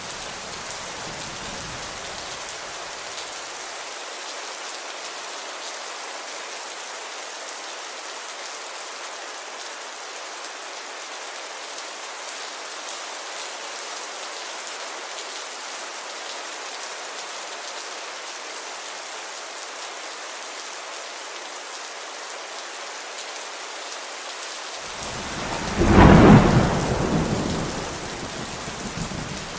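Steady rain hiss throughout. A low thunder rumble fades out in the first few seconds, and about 25 seconds in a loud thunderclap swells up and rolls for a couple of seconds before dying back under the rain.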